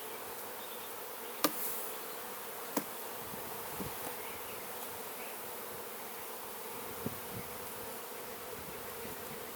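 Honeybees buzzing steadily around an open hive, with a few sharp knocks from hive parts being handled, the loudest about one and a half seconds in.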